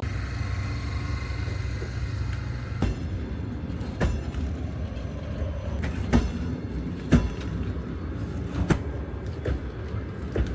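Passenger train running, heard from inside the carriage: a steady low rumble with several sharp knocks at irregular intervals.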